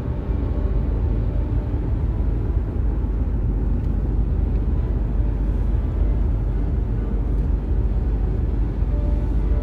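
A car driving on a rain-wet road: a steady low rumble of tyres and engine.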